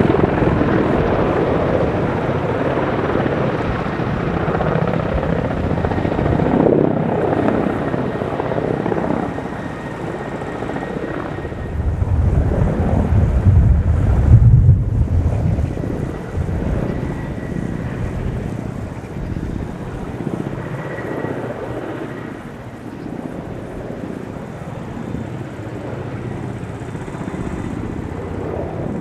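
Helicopter flying a display, its rotor and engine noise running continuously. It grows louder for a few seconds near the middle, then eases off and stays quieter.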